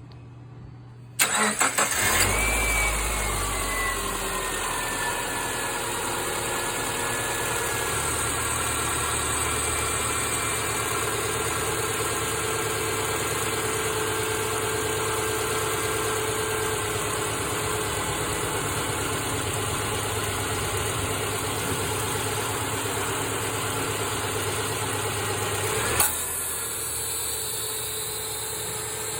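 2009 Subaru Forester's flat-four engine cranking and catching about a second in, then idling steadily, with a whine that falls in pitch over the first few seconds as the idle settles. A few seconds before the end there is a sharp click and the idle sound changes as the air conditioning is switched on.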